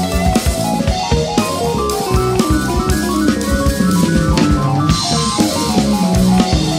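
Live jazz band playing an up-tempo piece, with drum kit, bass and guitar.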